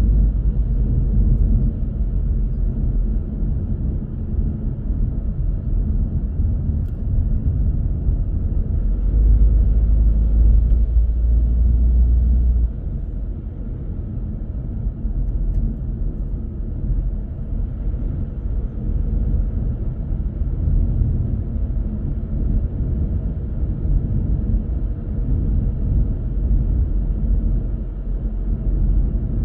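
Car driving: a steady low rumble of road and engine noise, louder for a few seconds from about nine seconds in, then dropping suddenly.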